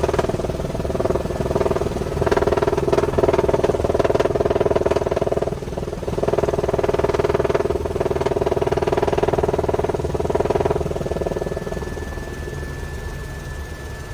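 Helicopter running in flight, heard from inside its open cabin: a steady droning hum with a fine rapid pulse. About eleven seconds in the drone drops away, leaving a thin steady high whine.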